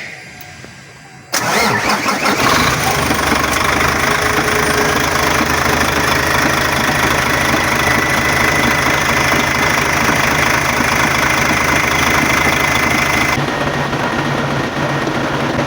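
Nissan GE13 V8 diesel truck engine starting about a second in, then running steadily at idle. The sound eases slightly about thirteen seconds in.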